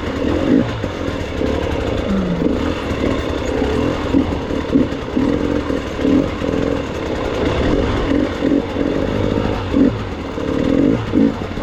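Gas Gas EX 300 two-stroke enduro motorcycle engine running on rough trail, with short throttle blips about every half second to a second.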